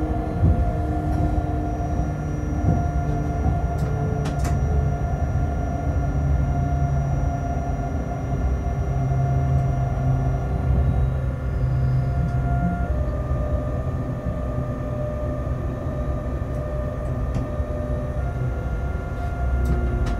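Freight train running, heard from inside the locomotive cab: a steady rumble with a droning hum of several tones that shift in pitch a few times, and a faint click about four and a half seconds in.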